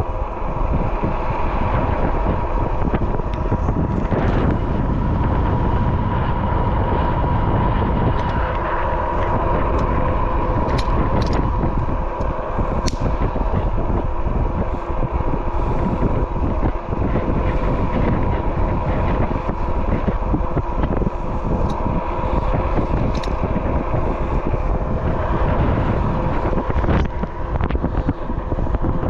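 Riding an e-bike at speed: steady rumbling wind and road noise with a steady whine, and a few light clicks.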